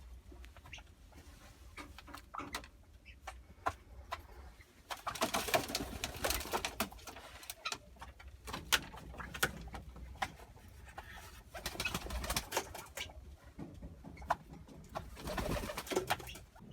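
Pigeons or doves cooing, with four stretches of rustling and short clicks.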